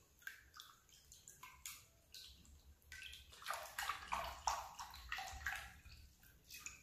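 Salted water being stirred in a bowl to dissolve the salt: faint, irregular splashing and sloshing strokes that grow busier about halfway through.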